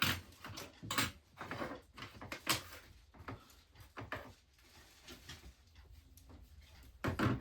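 Assorted household items being handled and set down: a string of short knocks and clatters, several in the first few seconds, then sparser, with a louder clatter near the end.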